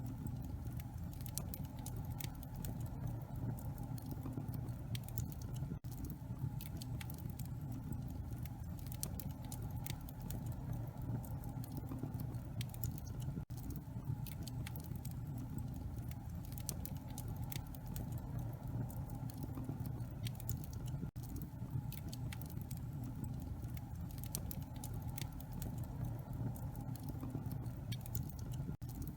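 Wood fire burning in a fireplace: a dense, irregular stream of small crackles and pops over a steady low rumble of the flames.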